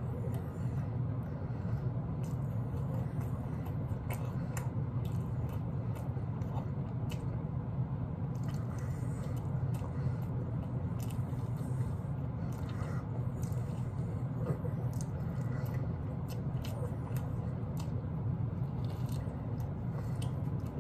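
A person chewing and biting into barbecue ribs close to the microphone: wet, squishy mouth noises and small scattered clicks over a steady low hum.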